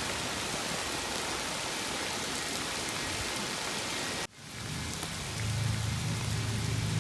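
Steady rain falling, an even hiss that cuts off abruptly about four seconds in and comes back quieter. A low steady hum joins it about a second later.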